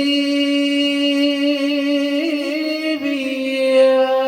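A solo male voice singing madih, holding one long note with small melodic turns in the middle, with no instruments heard.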